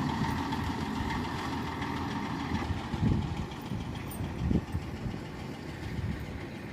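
Road roller's diesel engine running steadily, with a couple of brief louder thumps near the middle.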